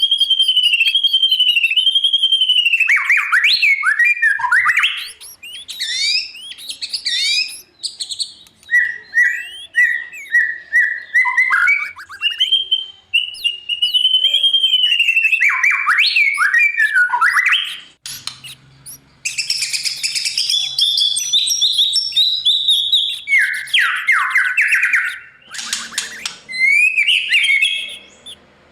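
White-rumped shama singing: a long, varied song of loud gliding whistles and quick warbling trills, broken by short pauses.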